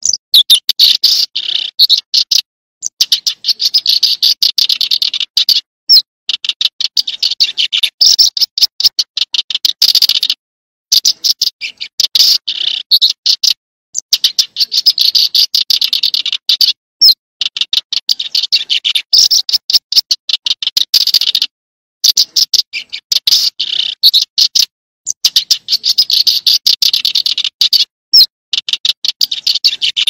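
Call of a small field bird (Vietnamese 'chim sẻ đồng'): loud, fast runs of short, high chipping notes, many a second, in bouts of a few seconds broken by brief pauses.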